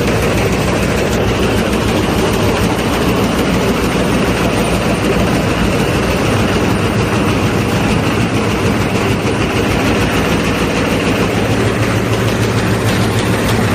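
A machine running steadily, a loud even noise with a low hum that shifts slightly in pitch about two-thirds of the way through.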